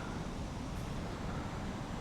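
Steady low rumble of a motor vehicle engine running, with no distinct events.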